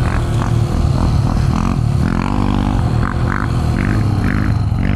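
Yamaha YZ125 two-stroke dirt bike engine running at a fairly steady, low engine speed as it is ridden.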